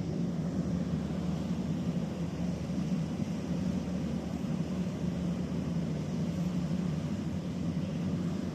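Steady low rumble of a boat engine running, even in level throughout.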